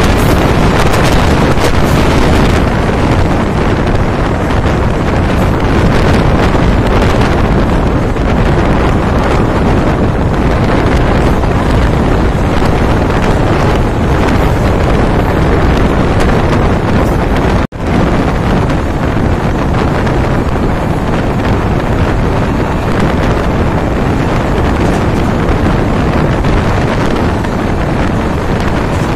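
Heavy wind buffeting the microphone over the steady rumble of a fast-running express train, heard from its open coach door. The noise breaks off for an instant about two-thirds of the way through, then carries on as before.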